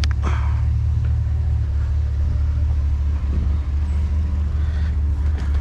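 Truck engine running steadily at low speed, a constant low rumble, with a sharp click right at the start.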